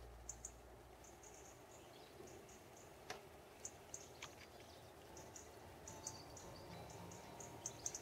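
Faint, high, short chirps of small birds, repeating irregularly throughout, over near silence, with a single faint tick about three seconds in.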